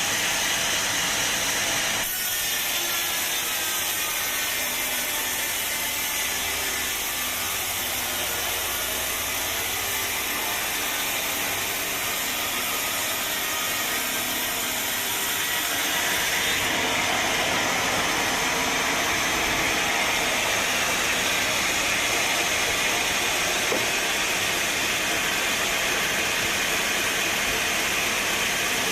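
Sawmill saw cutting through a teak log: a steady, noisy sawing sound that gets a little louder past the halfway point.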